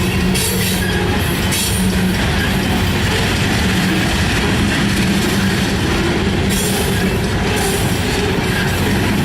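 Freight train rolling past at close range: a steady loud rumble of wheels on rail, with intermittent clatter.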